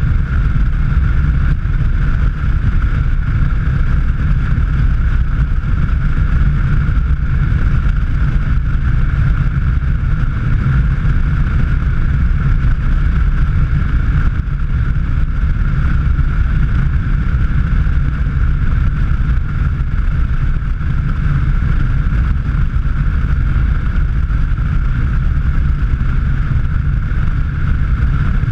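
Steady rumble of a car driving at speed on a road: engine, tyre and wind noise, even throughout with no change in pitch.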